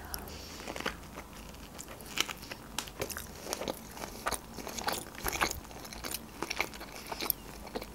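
Someone biting into and chewing a rice-paper spring roll with shrimp and carrot: soft wet mouth clicks and small crunches coming irregularly, several a second.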